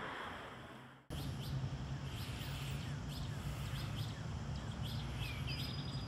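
A steady rushing noise fades out over the first second. After it, birds chirp repeatedly, with short high notes and a few falling whistles, over a low steady hum.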